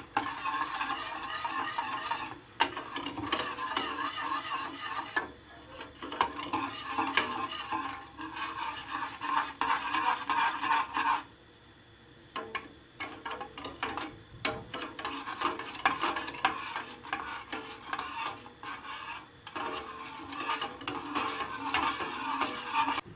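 A utensil stirring and scraping around the bottom of a pot of milk-and-cocoa pudding mixture as it cooks on the stove, kept moving so it thickens without sticking, with a brief pause about halfway through.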